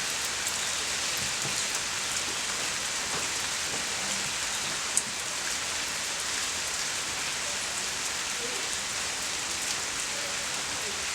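Steady rain falling, with scattered drops ticking close by and one sharper tick about halfway through.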